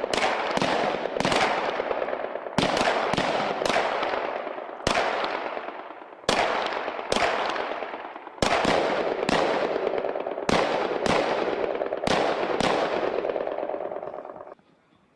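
HK G36 assault rifles (5.56 mm) firing single shots in an irregular, overlapping string on a range, each shot followed by a long echoing tail; the firing stops a little before the end.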